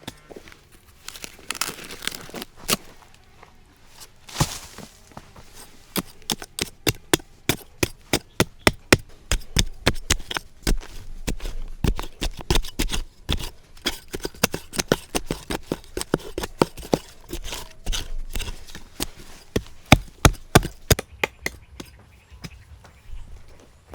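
A quick, irregular run of sharp knocks and cracks, several a second for most of the stretch, with two brief rustling swishes in the first few seconds.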